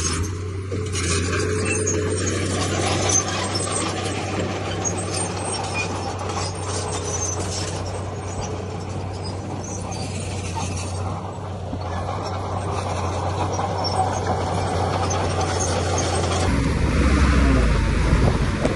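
Heavy diesel earthmoving machinery running steadily, a low engine hum under a dense rattling noise; about sixteen seconds in it changes to a deeper rumble.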